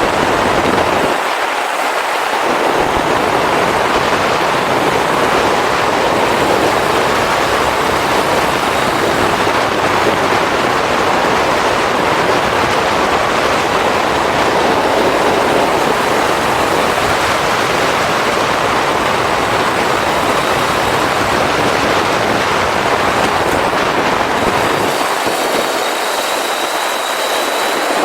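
Steady rush of wind and road noise from a motorcycle riding at speed, with no clear engine note standing out.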